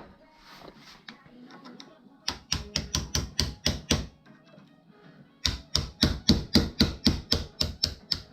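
Rapid hammer blows in two runs, about five or six sharp strikes a second, the second run longer than the first.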